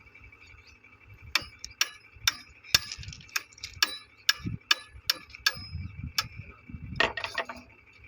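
A series of sharp metallic taps at a steady rate of about two a second, with a short clatter near the end.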